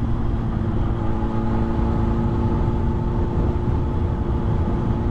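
Motor vehicle running at a steady speed: constant engine drone and road rumble with a few steady tones held unchanged throughout.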